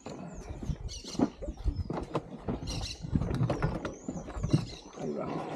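Birds giving short, high squeaky chirps and whistles several times, over irregular knocks and thumps.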